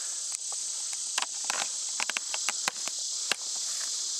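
A steady, high-pitched insect chorus, with a string of sharp, irregular clicks and crunches over it that stop about three and a half seconds in.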